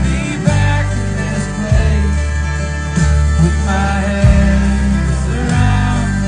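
Country band playing live: guitar over a heavy, sustained bass line with regular drum hits and a wavering melody line on top.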